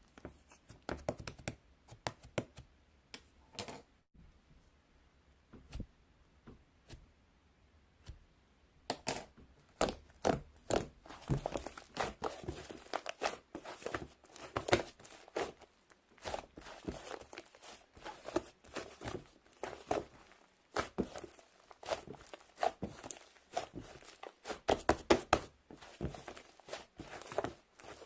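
Irregular clicks, knocks and crinkling, as of objects being handled: sparse at first with a quiet stretch, then coming thick and fast from about a third of the way in.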